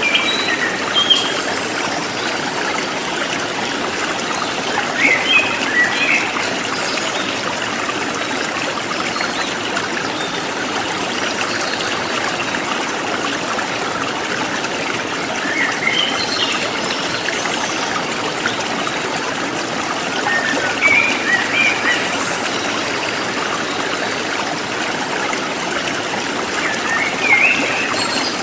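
A forest stream trickling steadily over rocks, with small birds chirping in short bursts now and then.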